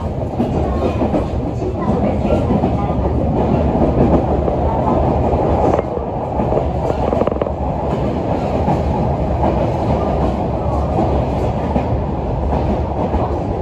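Yoro Railway 600 series electric train running on the track, heard from inside the car: a steady low rumble of wheels on rail with occasional clicks from rail joints.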